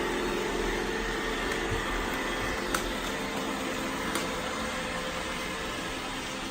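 iRobot Roomba i7+ robot vacuum running as it cleans, a steady motor and brush whir with a couple of faint clicks, about a third and two-thirds of the way through.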